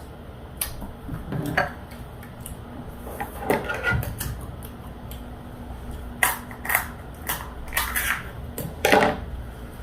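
Close-miked eating from a seafood boil: a run of short sharp crunches, clicks and cracks of biting and handling the food, coming at irregular intervals, busiest in the second half.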